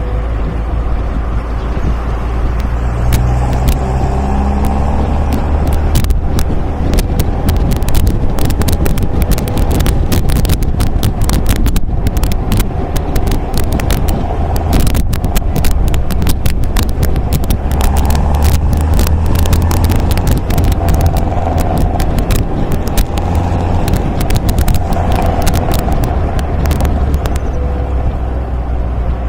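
MGA sports car's engine and exhaust under way, its note rising and falling with the throttle. Many sharp crackles run through the middle stretch.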